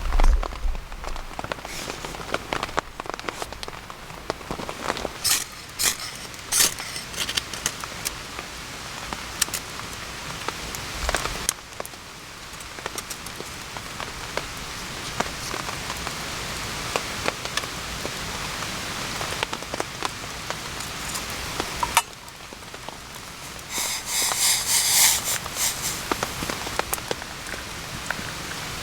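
Steady rain falling, with many sharp drops and taps landing close by. About 24 seconds in, a louder cluster of quick rustling clicks sounds for a second or so.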